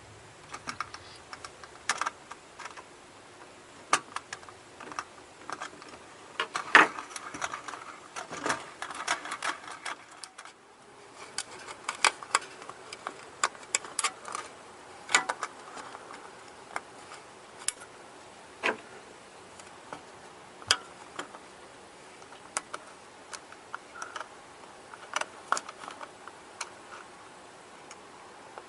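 Irregular light clicks and taps, a few sharper knocks among them, of small hard parts being handled and worked on.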